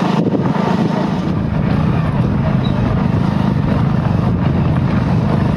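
Motorcycle engine running at a steady speed while riding, a constant low drone with noise over it.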